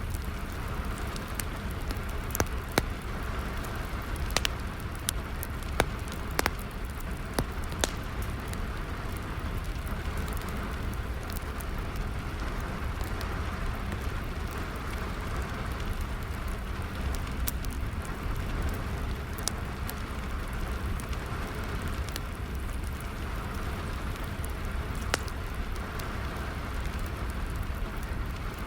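Steady rain falling with a wood fire crackling, sharp pops now and then, more often in the first few seconds.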